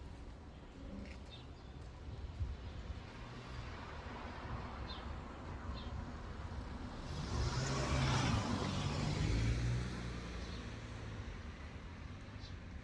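A motor vehicle passing by, its sound building to a peak about eight seconds in and then fading, with a few short bird chirps.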